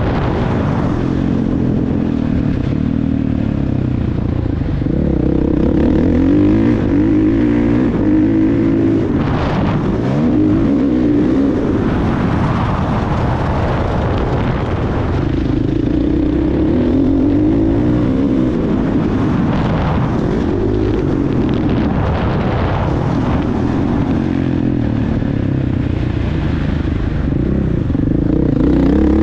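Motocross bike engine running hard, its pitch rising and falling over and over as the throttle opens and closes and the gears change.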